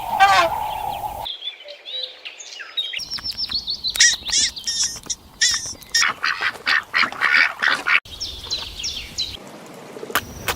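A cow's moo cuts off about a second in, followed by birds calling in quick runs of short, repeated calls.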